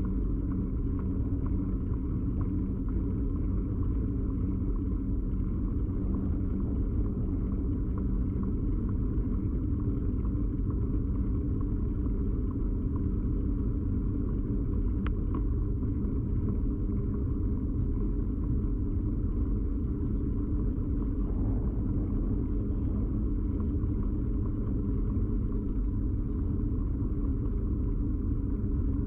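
Steady low rumble of a bicycle ride, the vibration and road noise picked up through a camera mounted rigidly on the bike. A single sharp click comes about halfway.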